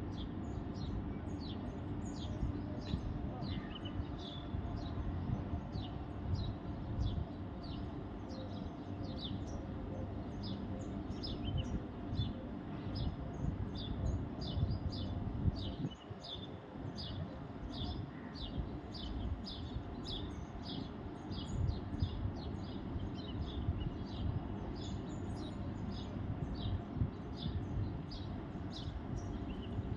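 Birds chirping: a steady run of short, high, downward-sliding chirps, about two a second, over a low rumbling background noise.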